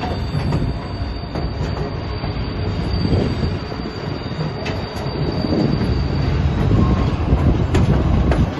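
White Pass & Yukon Route train rolling on its rails: a dense rumble of wheels and cars with scattered clicks and clatter, growing louder near the end.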